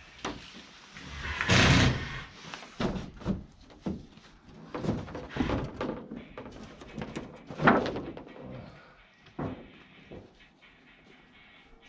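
Irregular knocks and thumps mixed with rustling, loudest about two seconds in and again near eight seconds.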